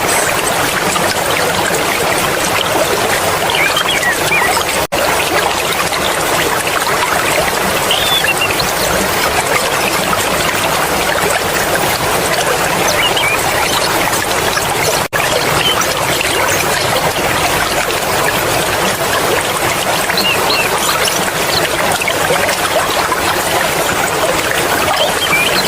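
Mountain stream water flowing and splashing over rocks, a steady dense rush, with two very brief dropouts about 5 and 15 seconds in.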